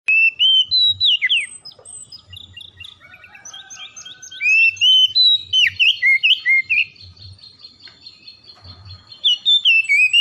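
Songbird singing a fast, varied song of clear whistled notes and slurred phrases, in loud bursts at the start, in the middle and near the end with softer song between: a song recording played to prompt caged birds to sing.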